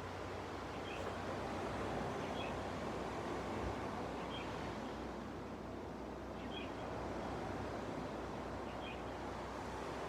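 Gentle sea waves washing on a beach, a steady rushing wash that swells and eases slowly, with a bird giving short high chirps every second or two.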